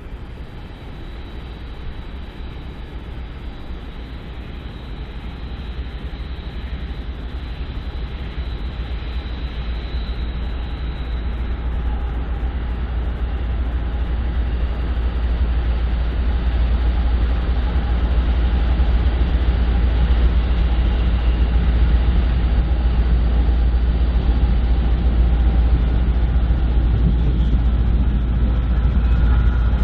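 BNSF diesel freight train approaching, its low rumble growing steadily louder.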